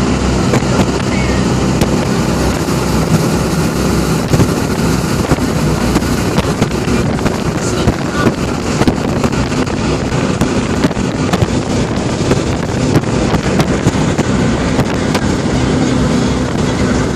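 Jet boat's engine running steadily at speed, with wind and rushing water spray over it, heard from aboard the boat.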